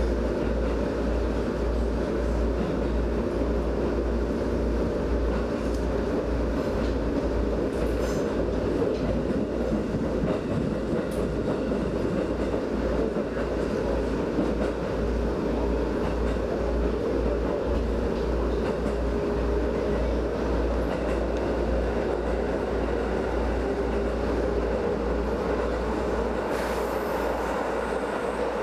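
Aonami Line train running, heard from inside the carriage: a steady rumble of wheels and running gear on the track.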